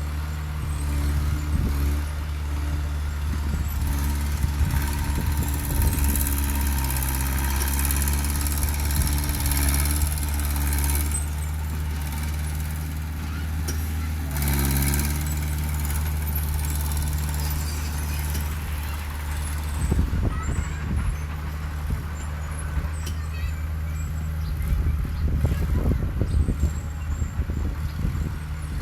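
Heavy diesel engine of earthmoving machinery running steadily, its pitch shifting briefly twice. A loud hiss runs over it for much of the first half, and scattered knocks come near the end.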